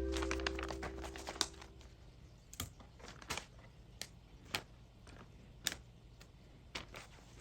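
Background music fading out, then scattered light clicks and taps, roughly one a second.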